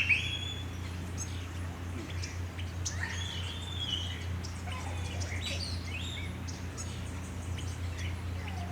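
Amazon parrots calling: a few loud gliding squawks, one right at the start, another about three seconds in and more around five seconds in, with short high chirps scattered between them.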